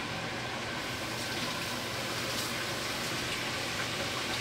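Steady sizzling hiss of food cooking on an electric stove, with a few faint crackles.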